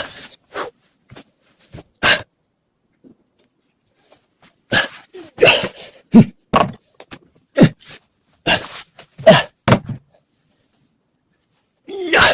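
A series of short, sharp vocal bursts, about a dozen in all, with a quiet pause of a couple of seconds after the first few.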